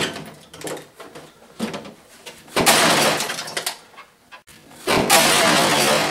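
A 1999 RCA 19-inch CRT television's cabinet being smashed apart, with knocks and two loud breaking crashes about two and a half and five seconds in, each lasting about a second.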